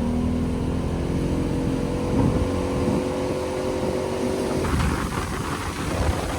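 Motorboat engine running under way, its pitch climbing slowly as the boat gathers speed. A little over four and a half seconds in, the engine note falls back under a rushing noise.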